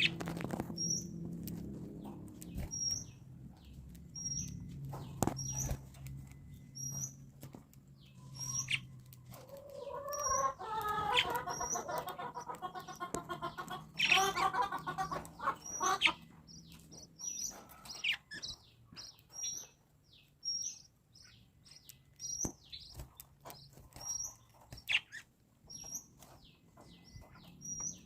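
Pet lovebirds chirping: short, high chirps repeating about once a second, with a louder stretch of lower warbling chatter near the middle and scattered sharp clicks.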